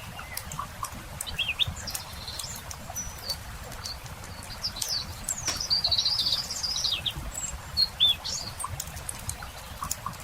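Songbirds chirping, with a longer song phrase in the middle, over the steady crackle of a wood campfire.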